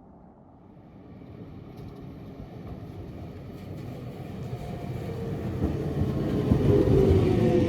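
Roslagsbanan narrow-gauge electric train approaching, growing steadily louder from faint to loud, with a rumble of wheels on rail and a tone that sags slightly in pitch near the end.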